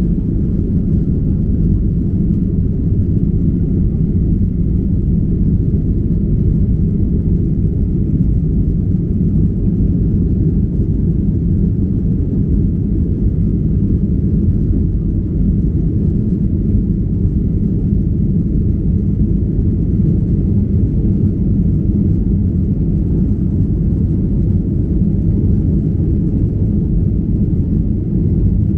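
Steady low rumble of airliner cabin noise inside a Boeing 737-800 in flight: engine and airflow noise, unchanging throughout.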